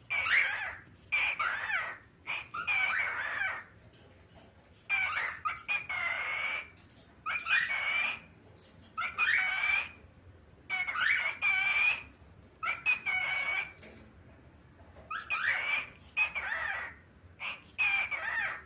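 Pet cockatiel talking: a string of short, high-pitched, voice-like phrases, each under a second, coming in little groups with brief pauses between them.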